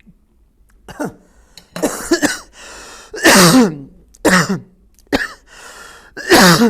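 A man coughing and clearing his throat in a string of about six short, loud coughs, each dropping in pitch, while eating.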